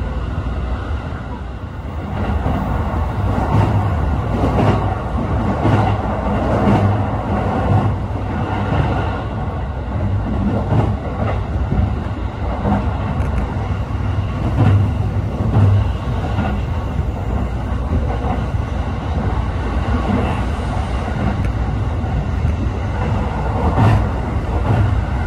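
Cabin running noise of a JR East E531-series electric train at speed: a steady rumble of wheels on rail with irregular knocks and clatter from the track, getting louder about two seconds in.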